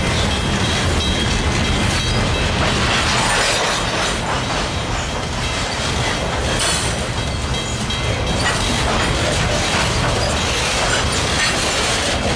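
Freight train of two-bay covered hopper cars rolling past at close range: steel wheels rumbling steadily on the rails, with occasional clacks.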